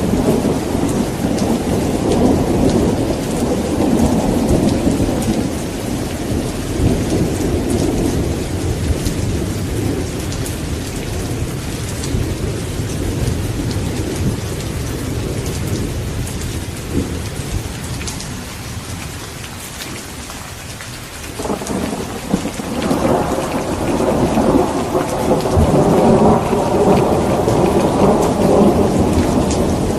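Steady rain falling, with rolling thunder rumbling underneath. The rumble dies down through the middle, and a new peal starts suddenly about two-thirds of the way through and swells again toward the end.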